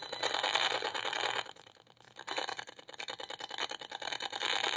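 Safe & Sound Pro 2 RF meter's audio output: a rapid crackling buzz of clicks, the sound of the pulsed radio-frequency signal it is picking up. It drops away briefly about one and a half seconds in, then comes back. The owner takes it for a microwave 'voice to skull' (Frey effect) beam.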